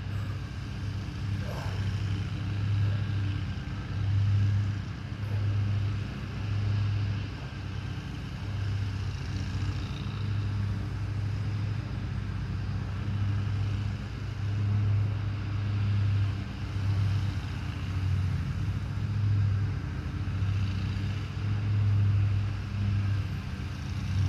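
Lawn mower engine running steadily with a low hum, swelling and fading in loudness every second or two.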